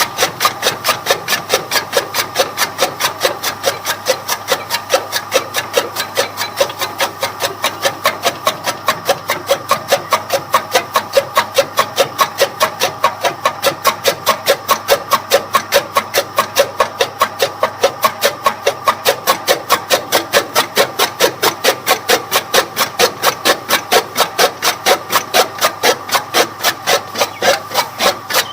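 Toka chaff cutter's blades chopping fodder in a fast, even rhythm of about four cuts a second.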